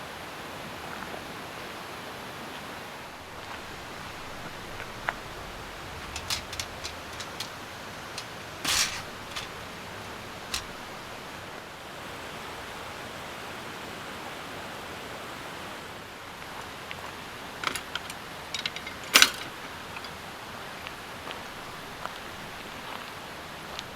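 Scattered light clicks and knocks over a steady hiss. They come in two clusters, a few seconds apart and then again later, with the sharpest knock near the end.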